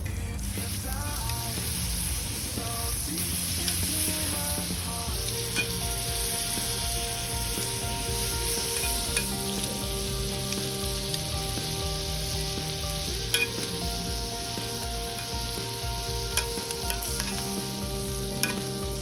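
Food frying and sizzling in a pan, a steady hiss, while it is stirred, with a few sharp clicks of a utensil against the pan.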